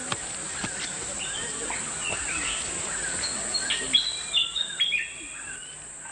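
Birds calling in a run of short whistled notes, some held flat and some jumping in pitch, loudest about four to five seconds in, over a steady high-pitched insect buzz.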